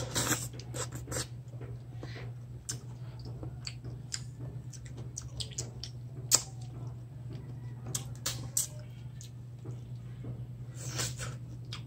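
Wet mouth sounds of eating mango slices: irregular smacks, sucks and clicks of biting and chewing, the sharpest about six seconds in, over a steady low hum.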